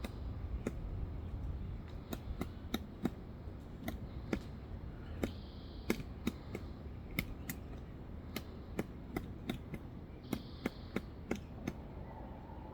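Pileated woodpecker pecking and chiselling into wood while foraging for grubs: irregular sharp knocks, about two a second.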